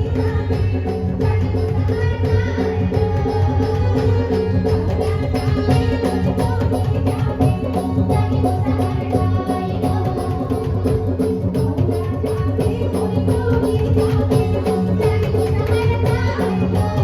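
Chhattisgarhi jawara folk song: a fast, even drum rhythm over a steady instrumental drone and melody, with singing at times.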